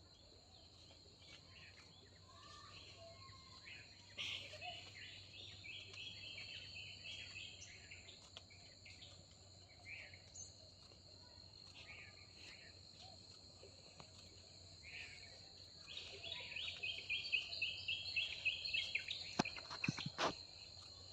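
Village dawn chorus: insects keep up a steady high buzz while birds call here and there. Twice, about four seconds in and again from about sixteen seconds, a bird gives a loud run of quickly repeated notes. A few sharp clicks come near the end.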